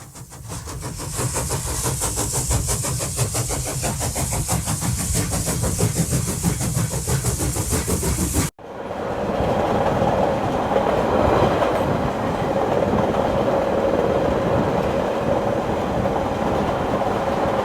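Train rolling on rails, its wheels clacking rhythmically over the rail joints with a high hiss. About eight and a half seconds in it cuts abruptly to a steadier rumble from the train.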